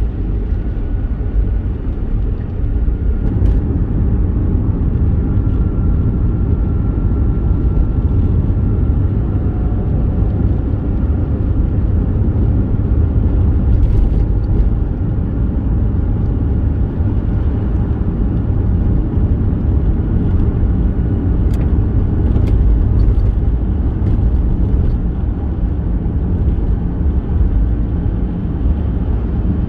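A first-generation Toyota Vitz driving: a steady low rumble of engine and road noise, with a few faint clicks.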